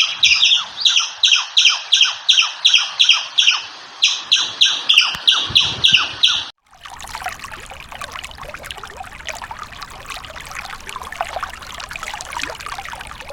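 A bird calling in a fast, even series of high chirps, about three a second. About six and a half seconds in, the chirps cut off abruptly and a steady hiss takes over.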